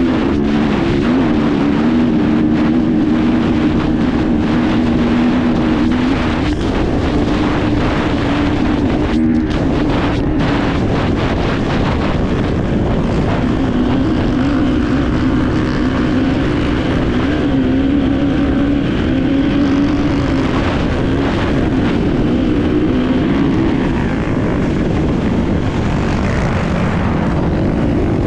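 Enduro dirt bike engine running under load as the bike is ridden, heard on board, its note rising and falling with the throttle. There is a short drop in the note with a few sharp knocks about nine to ten seconds in, over a steady rush of wind and terrain noise.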